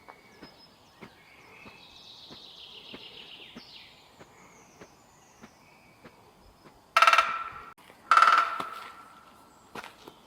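Woodpecker pecking at wood: a steady run of single sharp taps, two or three a second, with faint songbird song behind it early on. Well past the middle come two loud, harsh bursts about a second apart.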